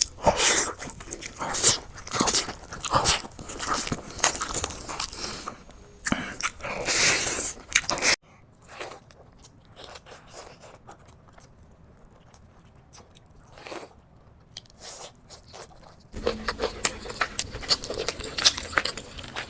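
Close-miked eating sounds: crunchy bites and wet chewing. The sound is busy at first, drops to a few soft mouth sounds about eight seconds in, and turns busy again near the end.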